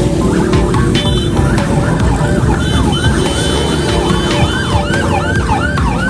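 Siren sounding in fast, repeated rising-and-falling sweeps, about two or three a second, over a dense low rumble.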